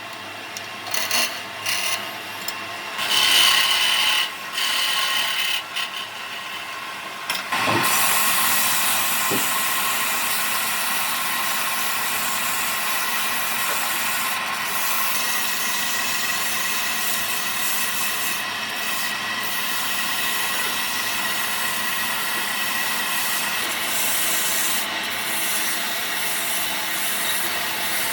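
Wood being worked by hand with a rasp or file in short, irregular rubbing strokes. About a quarter of the way in, this gives way to a steady, continuous noise that lasts to the end.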